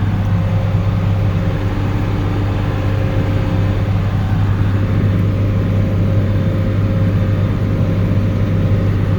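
Tractor diesel engine running steadily under load, pulling a loaded grain wagon.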